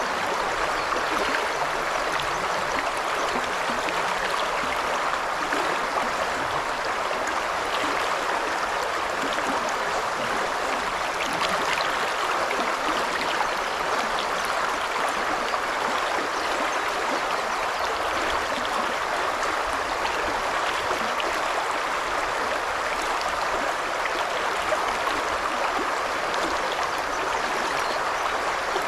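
The Isuzu River babbling: a steady, even murmur of shallow running water with fine trickling detail and no change throughout.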